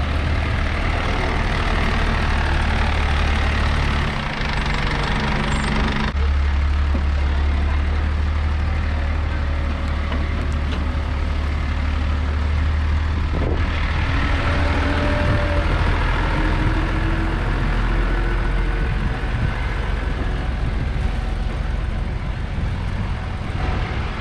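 Rear-loader garbage truck's engine running steadily, a heavy low rumble that shifts in sound about four seconds in and again about six seconds in.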